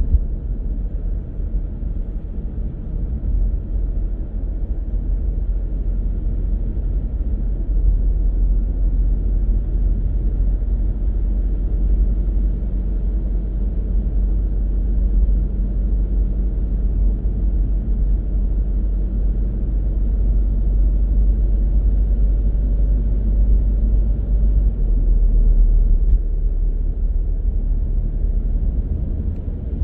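Steady low rumble of a car driving on the road, tyre and engine noise, growing somewhat louder through the middle and easing near the end.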